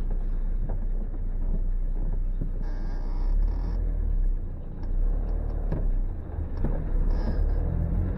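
Car driving on the road: a steady low engine and road rumble, with a brief higher hiss about three seconds in and again near seven seconds.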